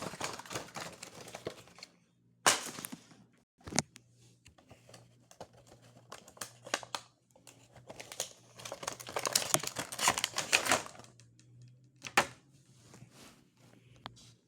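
Funko Pop box packaging being handled and opened: cardboard and plastic rustling and clicking in two busy stretches, with a few separate sharp knocks, the loudest about two and a half seconds in and again near the end.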